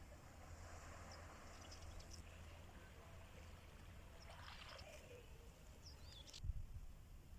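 Faint sea surf washing over a steady low rumble, with a brief high chirp and a low thump about six and a half seconds in.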